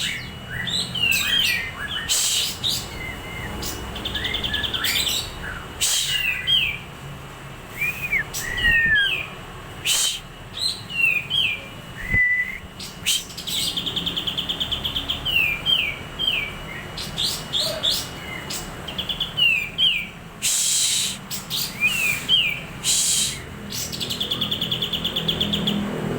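White-rumped shama (murai batu) singing a varied song: clear whistled notes sweeping up and down, interrupted by short harsh notes, with a rapid trilled phrase repeated about every ten seconds.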